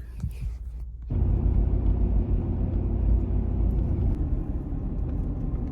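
Steady low rumble of a truck driving, engine and road noise heard from inside the cab, starting suddenly about a second in.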